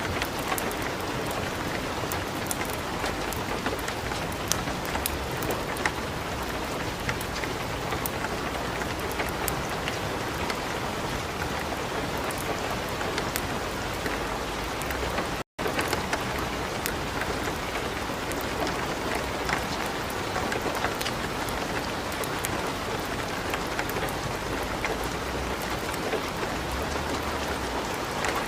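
Steady light rain mixed with a crackling wood fire: a dense even hiss sprinkled with many small sharp pops and crackles. The sound cuts out for a split second about halfway through.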